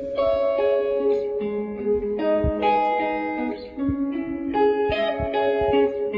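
A guitar playing a slow minor blues intro: single picked notes and chords held so that they ring into one another, with a few soft low thuds underneath.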